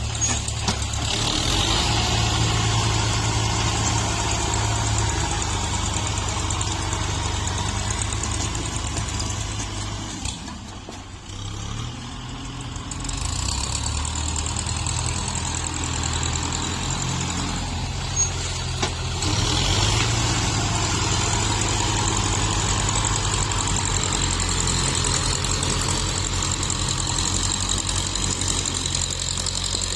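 Tractor diesel engines running steadily while grading soil. The sound eases off briefly about ten seconds in and picks up again by about thirteen seconds.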